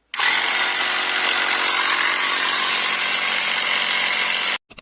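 A 12-volt car air pump (tyre inflator compressor) runs steadily, its motor driving the pump piston. It starts a moment in and stops just before the end, followed by a couple of short clicks. It is running again after its failed 3.3 V regulator chip was replaced, now fed with enough current from the bench supply.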